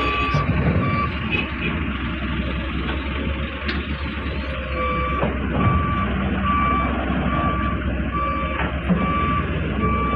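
Vehicle reversing alarm beeping, a little over one beep a second, over the steady low running of diesel engines. The beeps stop about a second in and start again about halfway through.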